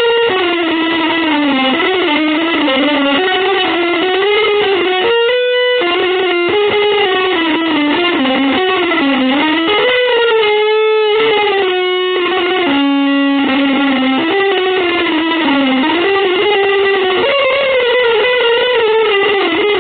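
Electric guitar through effects playing a continuous, sliding melodic line that bends up and down in pitch, with a few brief breaks near the middle.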